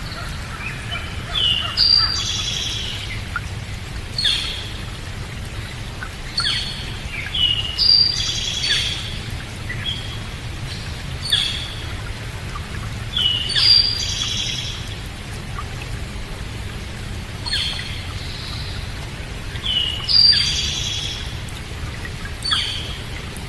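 Songbirds chirping in short, repeated phrases of quick high notes, one every two to three seconds, over a steady low rushing background.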